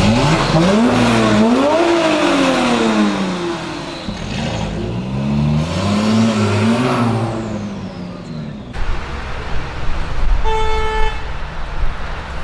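Porsche 997 Turbo's twin-turbo flat-six with a Soul competition exhaust revving: the pitch climbs, dips once as if on a shift, and falls away, then rises and falls a second time, with a high turbo whistle sliding down near the end of it. After an abrupt cut, rougher road noise and a short car-horn toot.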